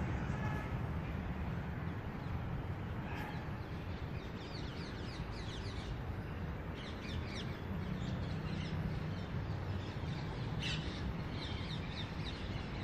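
Small birds chirping over and over in short, high, falling chirps, growing busier from about four seconds in, over a steady low rumble.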